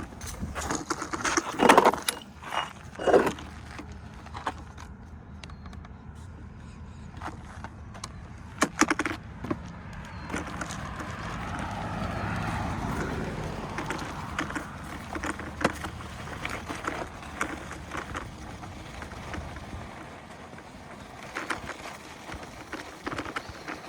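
InMotion E20 electric unicycle rolling along a dirt single-track: a steady low tyre rumble with scattered clicks and knocks from the trail surface, two louder knocks near the start. The rumble fades out about twenty seconds in.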